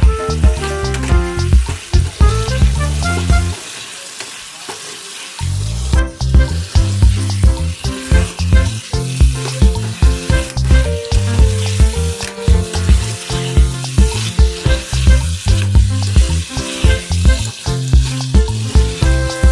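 Chicken sizzling as it fries in a pan, stirred now and then, a steady hiss. Background music with a steady beat plays over it, breaking off for a couple of seconds about four seconds in.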